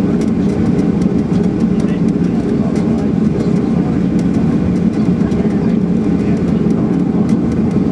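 Boeing 737-800 cabin noise from inside the aircraft: the steady rumble of the CFM56 engines and airflow, with many light rattles and clicks from the cabin.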